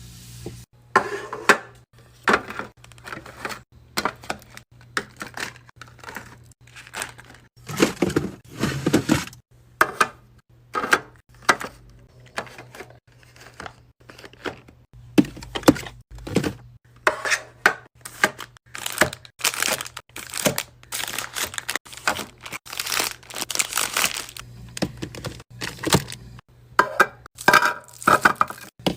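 Food packaging and containers being handled while stocking a fridge: plastic crinkling and tearing, with short knocks as items are set down, in irregular bursts.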